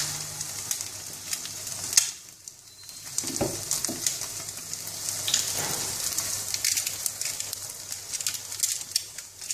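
Eggs in bell-pepper rings frying in olive oil in a nonstick pan: steady sizzling with scattered pops and crackles. A sharp click about two seconds in, after which the sizzle drops for about a second before picking up again.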